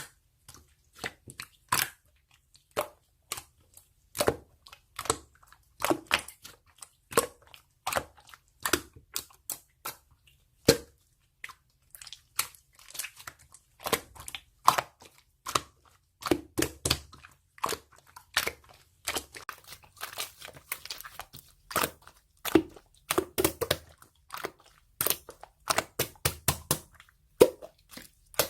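Slime being squished, poked and stretched by hand, giving off irregular sharp clicking and popping sounds, several a second, which come thicker in the second half.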